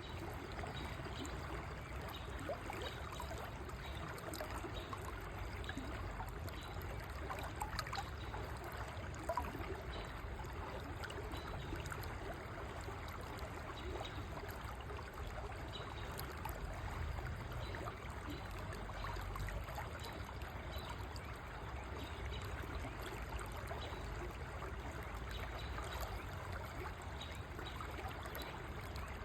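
River water flowing steadily over a shallow bed, a continuous rushing and trickling with a low rumble underneath and small splashes.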